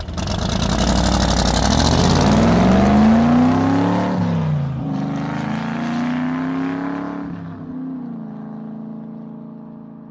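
Car engine revving: its note climbs, drops sharply about four seconds in, climbs again and holds, then fades away near the end.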